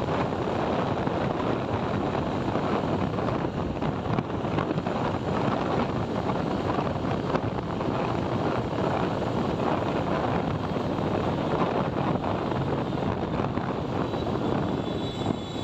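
Steady wind rush over the microphone and engine and road noise from a motorcycle riding at speed.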